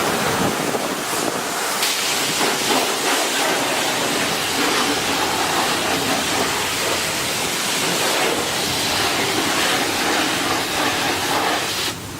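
Car wash jets spraying water onto a car: a steady, loud rush of spray that grows stronger about two seconds in and drops off near the end.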